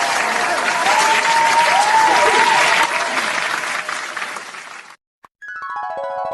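Crowd applause and cheering with whistles, which cuts off abruptly about five seconds in. A moment later a musical tone sweep begins, sliding down in pitch.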